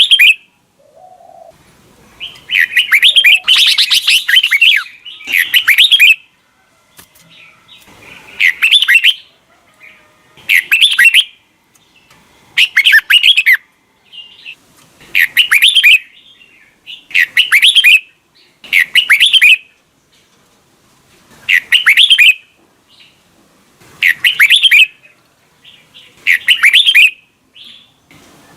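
Red-whiskered bulbul singing short warbling phrases, one roughly every two seconds, with a longer phrase about three seconds in.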